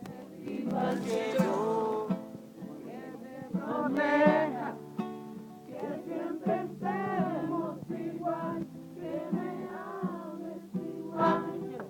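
Voices singing a song to a plucked string instrument's accompaniment, the melody rising and falling in phrases over steady chords.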